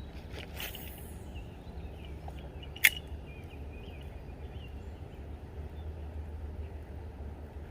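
Fishing rod and reel in use: a brief swish near the start, then one sharp click about three seconds in, over a steady low rumble.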